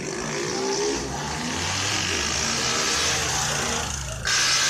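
Car engine revving up and down over a loud rushing noise, which jumps suddenly louder about four seconds in.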